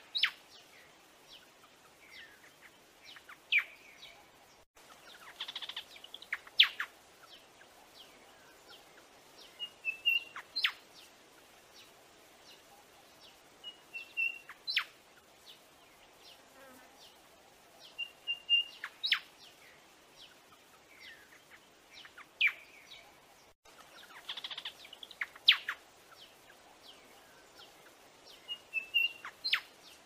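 Buff-sided robin calling: a short, high whistled double note followed by a few sharp, quick notes. The phrase repeats about every three to four seconds.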